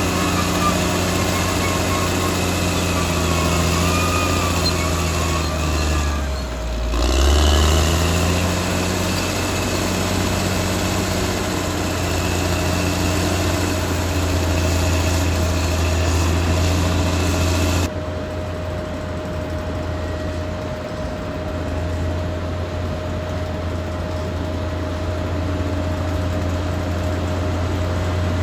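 Caterpillar D6R XL bulldozer's diesel engine running steadily, with a brief dip and recovery in engine pitch about seven seconds in.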